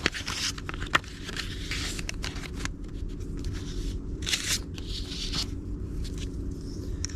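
Paper index cards being handled and written on: short scratchy strokes, rustling and a few light clicks.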